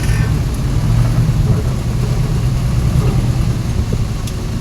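Truck engine running steadily, a low rumble that neither rises nor falls.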